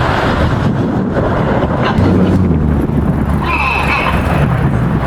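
Jet engine noise from the Red Arrows' BAE Hawk jets flying their display, a dense rumble mixed with wind on the microphone. A short higher-pitched wavering sound cuts in about three and a half seconds in.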